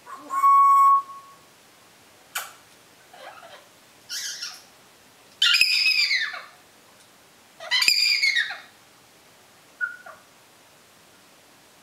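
African grey parrot whistling and calling: a loud, steady whistle in the first second, then a string of separate short calls whose pitch arches and falls, the loudest two in the middle, and a brief chirp near the end.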